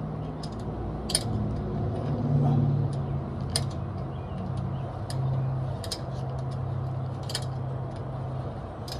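Light metallic clicks and clinks, scattered and irregular, as the locking nut on a full-floating rear axle spindle is spun off and handled, over a steady low hum.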